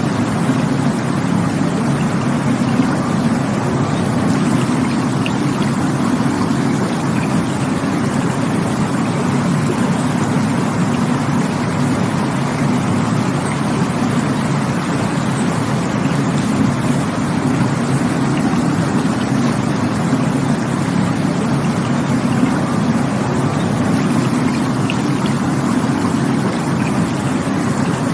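Rushing water running steadily: a dense, even noise, heaviest in the low range, without breaks or distinct splashes.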